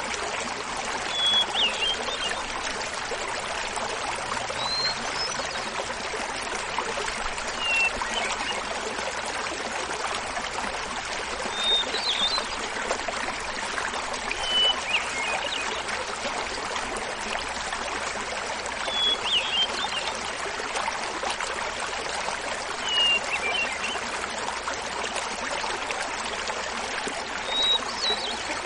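Small mountain waterfall babbling steadily. Over it a hermit thrush sings short flute-like phrases every three to five seconds, each at a different pitch.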